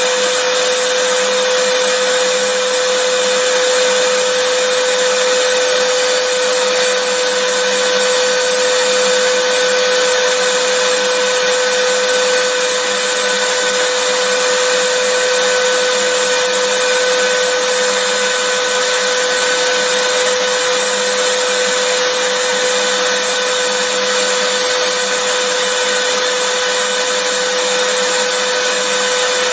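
Vacuum cleaner running steadily, a loud even rush of air with a constant high motor whine.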